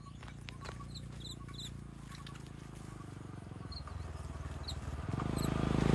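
Faint short bird chirps and scattered clicks, then a motor vehicle engine approaching and growing loud near the end.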